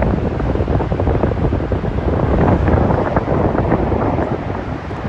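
Strong gusty wind buffeting the phone's microphone: a loud, uneven rumble that swells and drops with the gusts.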